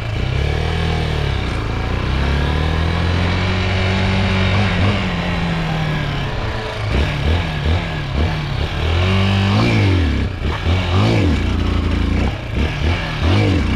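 A 250cc Chinese dirt bike's engine under way, its revs rising and falling in long sweeps, then in quicker rises and drops in the second half as the throttle is worked.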